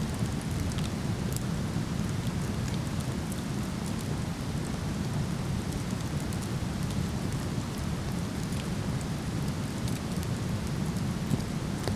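Steady rushing roar of a waterfall, with scattered sharp crackles and pops from a burning wood fire.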